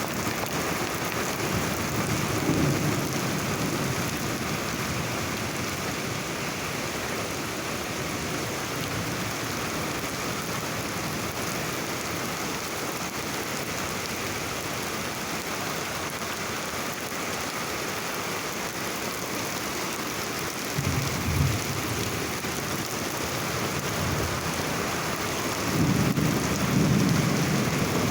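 Heavy rain falling steadily, with low rumbles of thunder: one about two seconds in, a short one about three-quarters of the way through, and a longer one near the end.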